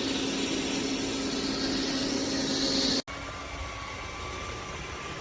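Dreame L40 Ultra robot vacuum running: a loud, steady whirring hiss with a steady hum that cuts off abruptly about three seconds in, followed by a quieter steady run of the machine.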